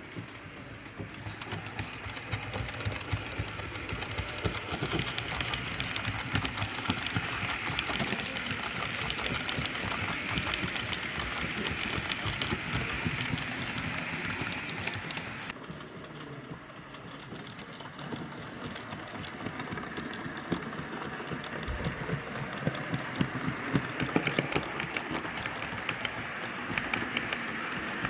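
Model railway train running on a layout: a steady mechanical running noise with rapid clicking of the wheels on the track, easing off about halfway and picking up again towards the end.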